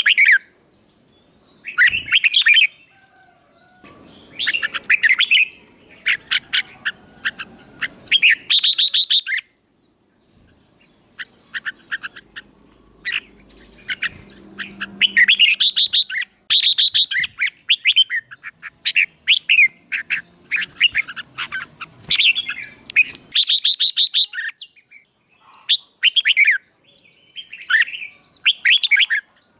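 A songbird singing loud, repeated phrases of quick chirping notes, each burst a second or two long, with short pauses between them and a longer pause about ten seconds in.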